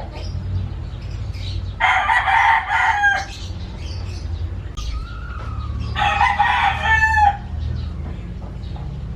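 A rooster crowing twice, each crow lasting over a second and ending in a falling note, with small birds chirping faintly.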